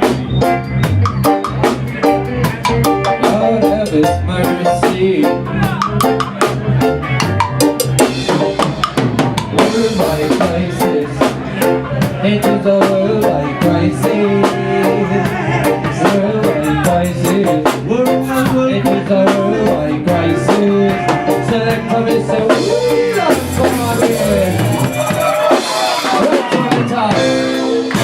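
Roots reggae band playing an instrumental passage: drum kit with snare rimshots and bass drum over a steady bass line. The bass drops out briefly near the end.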